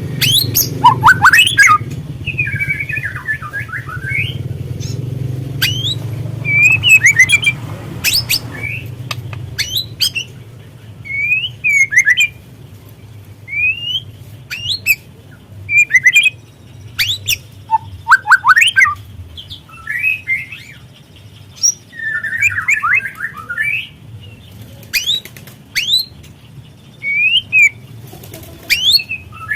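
White-rumped shama calling: a run of sharp chirps and quick down-slurred whistles, broken by several bursts of harsh, scratchy chatter. A low hum sits under the first part and stops about nine seconds in.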